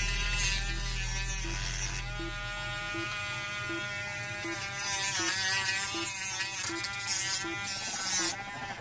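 Small high-speed rotary tool running and grinding into a plastic trim panel. Its whine sags in pitch as it bites, about five seconds in and again near the end, and it stops shortly before the end.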